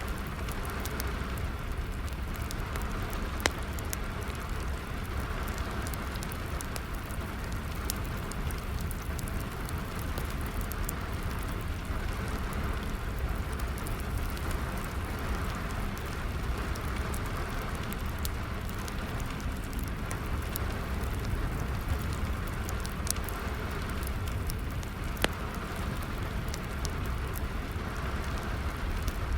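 Steady rain with a crackling fire: a constant rushing patter with a low rumble, broken by scattered sharp pops and snaps from the burning wood, the loudest about three and a half seconds in and again near the end.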